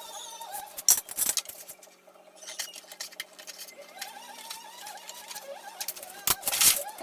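Sharp clicks and clinks of small hard parts being handled, about a second in and again near the end, over a wavering mechanical whine.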